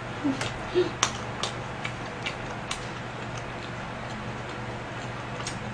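Close-miked chewing of pizza: irregular wet mouth clicks and soft crunches, roughly two a second, with two brief hums within the first second and a steady low hum underneath.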